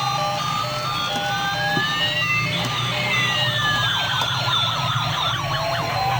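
Toy police car's electronic siren wailing, one tone gliding slowly up in pitch while another glides down, over a repeating pattern of short electronic beeps.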